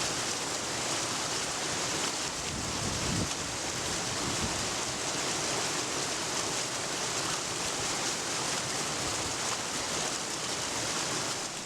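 Steady rush of flowing, falling water, even and unbroken throughout.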